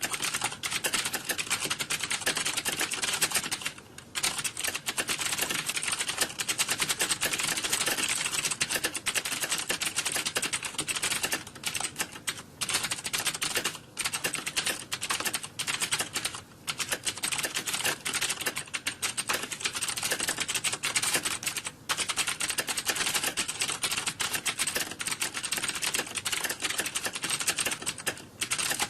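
Fast typing on a computer keyboard: a dense, continuous run of key clicks, broken now and then by short pauses.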